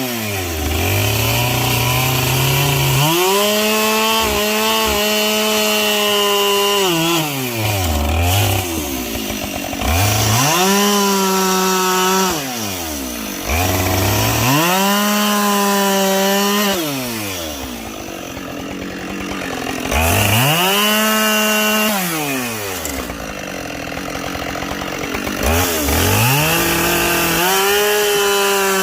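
Two-stroke chainsaw bucking logs. The engine revs up to full throttle and holds through each cut, then drops back toward idle between cuts, about five times in a row.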